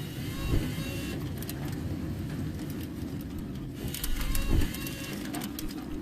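Car heard from inside the cabin, driving slowly through deep floodwater: a steady low rumble with a louder surge about two-thirds of the way in, and scattered sharp ticks near the end.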